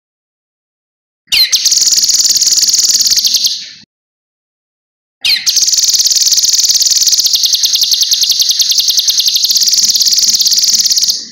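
Cucak kinoi songbird singing a loud, rapid, very high trill in two phrases, each opening with a quick downward sweep: a short one about a second in and a longer one from about the middle that cuts off suddenly.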